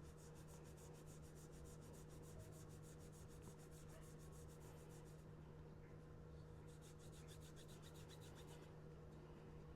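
Faint rubbing of a cloth rag working metal polish over a stockman pocket knife, in quick back-and-forth strokes, with a steady low hum beneath. The rubbing stops about five seconds in and resumes for about two seconds near the end.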